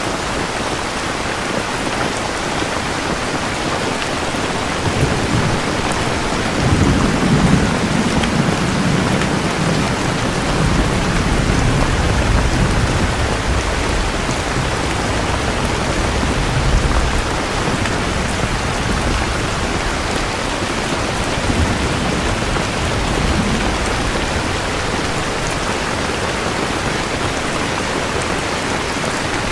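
Steady heavy rain falling, with a low rumble of thunder building about five seconds in, peaking a few seconds later and slowly dying away.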